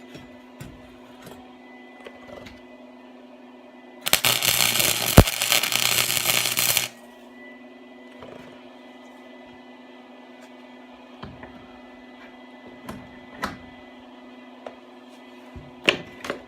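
A welder striking an arc on exhaust pipe and welding for about three seconds, a loud burst of noise, over a steady low machine hum, with a few light clicks and knocks before and after.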